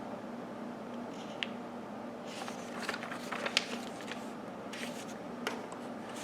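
Handling of a plastic upright vacuum and its parts: scattered light clicks and taps with rustling, the sharpest about halfway through, over a faint steady hum.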